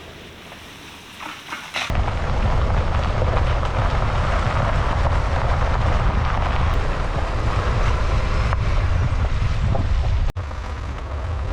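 A vehicle on the move: a steady low rumble of road and engine noise that starts suddenly about two seconds in after a quieter hiss, with a brief break near the end.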